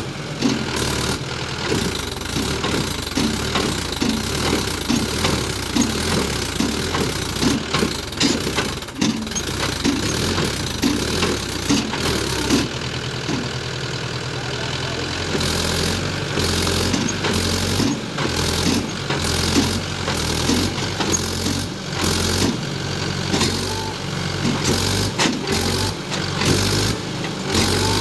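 Tractor diesel engine running, with a pulsing beat through the first half that turns steadier from about halfway.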